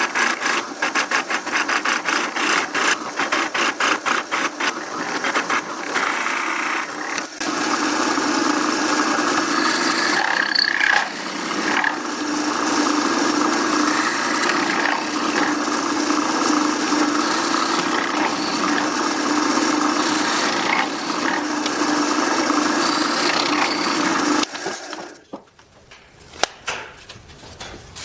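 A woodworking power tool running steadily on wood with a constant hum, then stopping about 24 seconds in, followed by quieter handling and a single knock.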